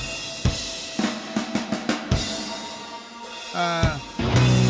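Drum kit playback from a metal mix: kick and snare hits, then a quick drum fill. Near the end a pitched effect sweeps in and a sustained low chord from the band comes in.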